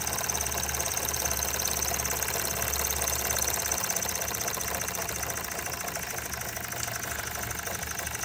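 Empire No.32 toy steam engine running at speed with a fast, even clatter, its action running smoothly.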